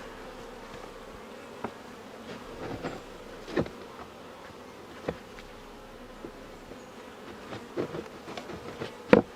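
Honeybees buzzing steadily around an opened hive, a low even hum from many bees in flight, with a few brief louder sounds scattered through it, the loudest near the end.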